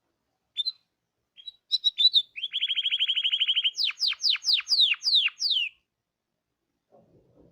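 Domestic canary singing: a few short chirps, then a fast even trill, then a string of about seven falling whistled notes before it stops.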